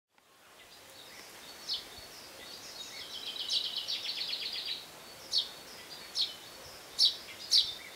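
Songbirds singing over a steady outdoor background hiss, fading in from silence. A trilled song runs through the middle, then short falling notes repeat about once a second.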